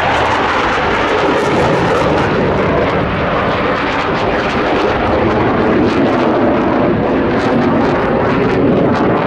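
Loud, steady roar of Blue Angels Boeing F/A-18 Hornet jet engines during an air show flight display.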